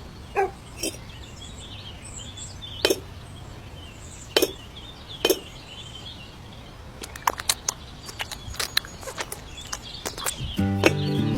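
Light, sharp clicks and taps of small pieces and tools being handled in miniature craft work: a few single taps spaced well apart, then a quick flurry of clicks. A faint steady background with faint bird chirps runs under them, and music comes in near the end.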